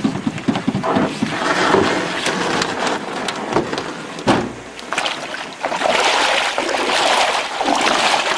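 Water splashing and rushing around a canoe, with a single sharp knock about four seconds in.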